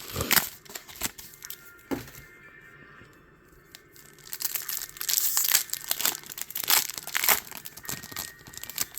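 Foil wrapper of a Pokémon card booster pack crinkling and tearing open, in short bursts at the start and about two seconds in, then a longer busy stretch of crinkling in the middle, over quiet background music.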